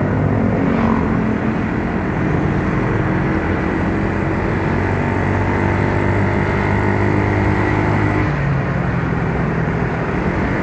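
Yamaha Mio Soul scooter's single-cylinder four-stroke engine running while riding, mixed with road and wind noise; the engine note changes about eight seconds in.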